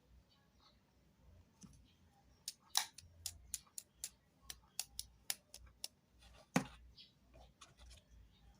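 A run of sharp, quick clicks, about four a second, lasting roughly three seconds, followed shortly after by one louder single click.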